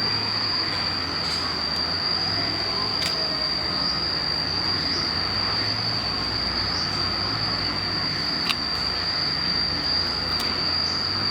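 Insects droning steadily on one unbroken high pitch over a constant rushing hiss, with a sharp click about eight and a half seconds in.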